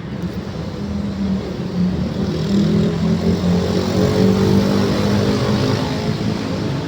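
A motor vehicle's engine going past close by, growing louder over a few seconds and then fading.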